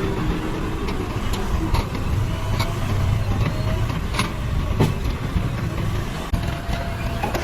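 Diesel engine of a JCB 3DX backhoe loader running steadily, with several sharp knocks over it.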